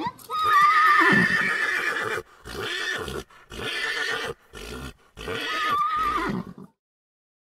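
Horse whinnying: one long call of about two seconds, then a run of shorter whinnies in quick succession.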